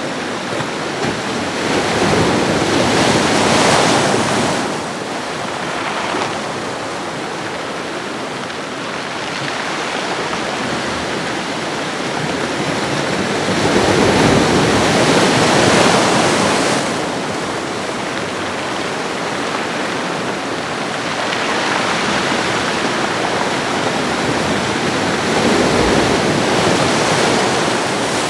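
Ocean waves washing onto a shore, a steady hiss of surf that swells and falls back three times, about every ten seconds.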